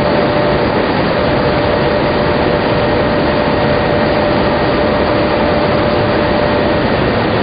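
Steady, loud machinery noise of a tobacco-lamina flash dryer line, a dense rush with a steady whine that stops about seven seconds in.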